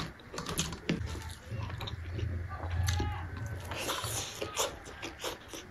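Close-miked eating by hand: wet mouth clicks and smacks of chewing soft rice, a low rumble in the middle, and the squish of rice being mixed with the fingers.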